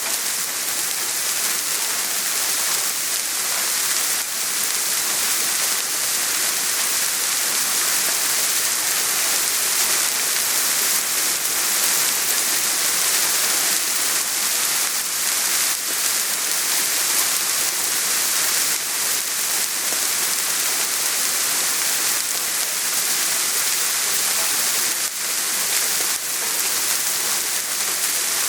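Steady soft rain falling on surfaces, an even hiss with scattered drops.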